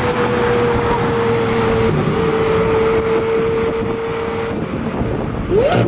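Straight-piped Lamborghini Aventador SV's V12 holding steady high revs, its note sagging slowly for about four and a half seconds and then fading. Near the end comes a quick rev that rises sharply, with a sharp crack.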